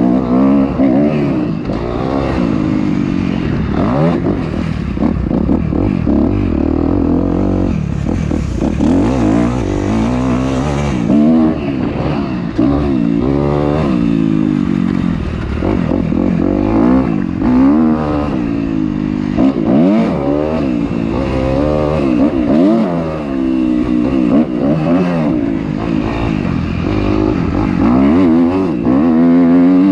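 Dirt bike engine revving up and dropping back again and again, its pitch climbing and falling every second or two as the rider works the throttle and gears on a motocross track.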